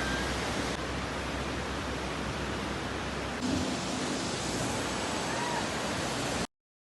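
Steady rushing outdoor noise, like wind or running water, with a few faint high chirps. It shifts abruptly in level twice and cuts to silence near the end.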